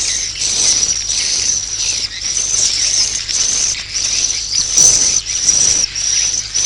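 Swiftlet roosting call ('suara inap'): a continuous chain of high chirps, about two a second, the kind of call played in swiftlet houses to draw swiftlets in to roost.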